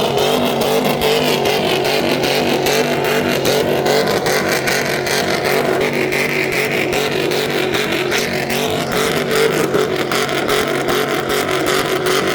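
Car engine running loud at steady high revs, its exhaust crackling throughout.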